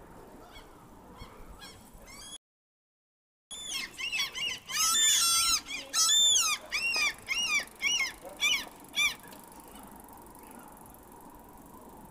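A bird calling loudly: a quick run of short, arched squawks lasting about five seconds, after a few fainter calls and a one-second dropout in the sound.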